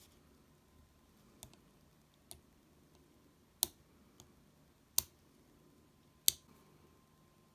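Sharp clicks and taps of small tools and parts being handled, scattered and irregular, with three louder clicks about a second and a quarter apart in the second half.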